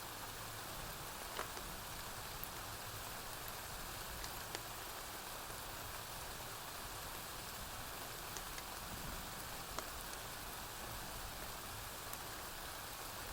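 Steady rainfall, an even hiss with a few scattered sharp crackles and clicks.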